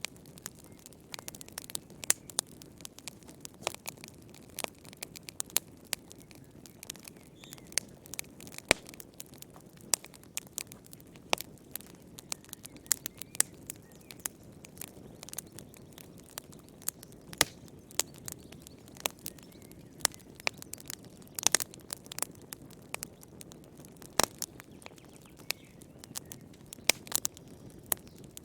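Wood fire burning in a fireplace: irregular sharp crackles and pops from the burning logs, several a second, over a low steady rush of flame.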